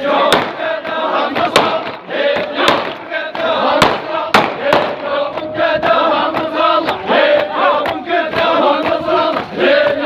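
Crowd of men chanting a hosa refrain in unison, Iraqi 'arada style, with sharp loud cracks striking about once a second.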